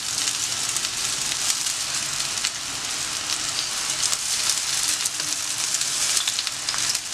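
Vegetables and boiled noodles frying in hot oil in a steel kadhai on a high flame: a steady sizzle, with a few light clicks scattered through it.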